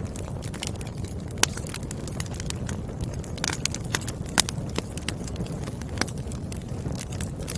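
Firewood burning in a fireplace, crackling with irregular sharp pops over a steady low rumble of flame. The two loudest pops come about one and a half seconds in and again at about four and a half seconds.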